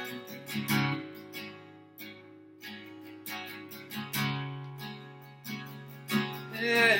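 Acoustic guitar strummed alone, chords ringing between strokes.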